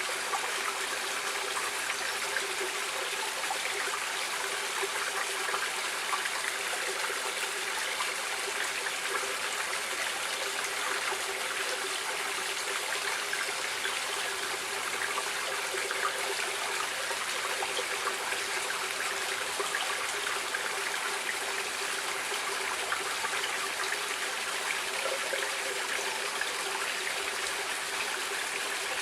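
Running water of a stream, a steady, even rush that holds at one level throughout.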